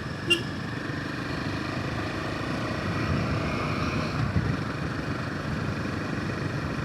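Royal Enfield Himalayan 450's single-cylinder engine running steadily as the motorcycle is ridden, with road noise.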